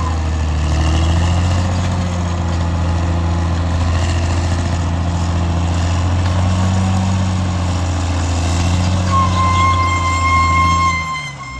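Caterpillar D6R XL bulldozer's diesel engine running steadily with a deep, even note. Near the end a steady high-pitched whine joins for about a second and a half.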